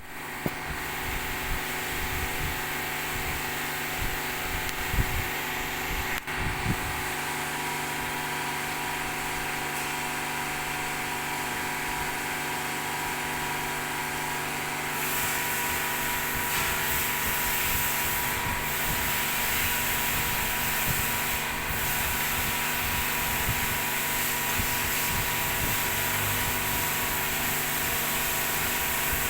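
Steady workshop machinery hum and hiss with a few short metallic clinks and knocks in the first seven seconds; the hiss grows a little louder from about fifteen seconds in.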